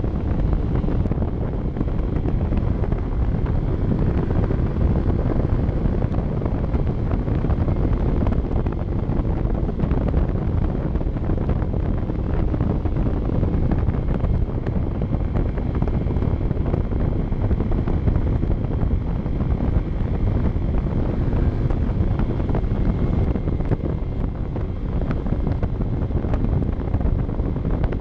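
Wind buffeting an action camera's microphone on a moving Honda CB 125 F motorcycle, with the bike's small single-cylinder engine running steadily underneath.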